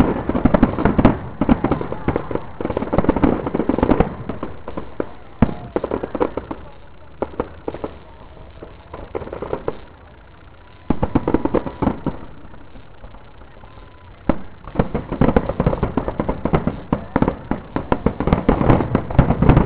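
Fireworks display: rapid volleys of bangs and crackling from bursting shells. The volleys thin out midway, with a short flurry about eleven seconds in, then build again to a dense barrage near the end.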